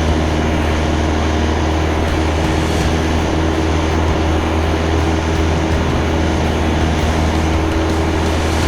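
Carbon Cub light airplane's engine and propeller running at a steady, loud drone in flight, with a constant low hum under a broad rushing noise.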